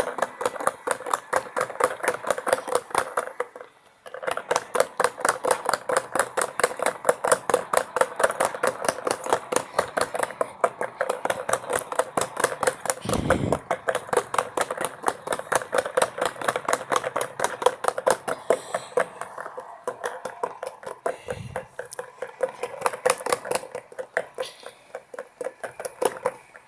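Miniature washing machine running its wash cycle, the drum and motor giving a fast, steady clicking rattle of about five clicks a second, with a short pause about four seconds in and a dull thud about halfway through.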